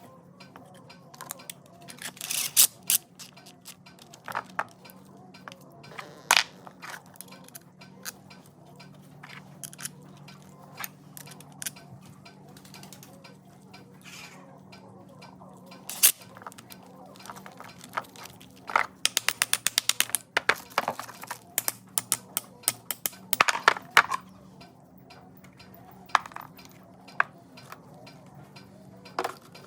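Hand tools and metal parts clinking and tapping on a workbench, in scattered knocks, with a fast even run of clicks, about eight a second, roughly two-thirds of the way in. A steady low hum runs underneath.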